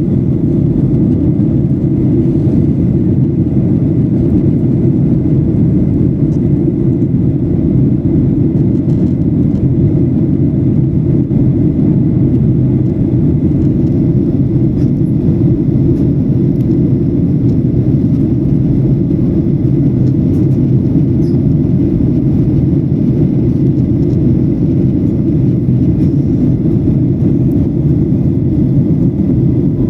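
Steady low cabin rumble inside a Boeing 737-800, its CFM56-7B engines and airflow making an unbroken roar.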